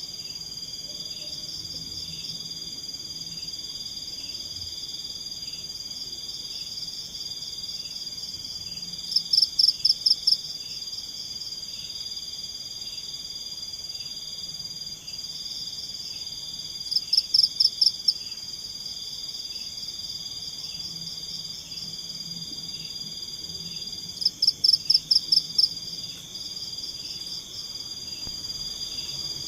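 Forest chorus of calling insects: a steady high-pitched trill, broken three times by a louder burst of fast pulsed calls lasting a second or two, with a softer chirp repeating about once a second underneath.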